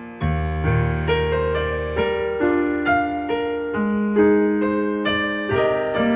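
Soft background piano music: single notes and chords struck roughly every half second, each fading away, over a held low bass note at the start.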